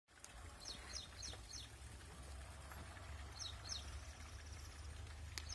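Birds chirping faintly: a quick run of four short high chirps about a second in, and two more a little past the middle, over a faint low rumble.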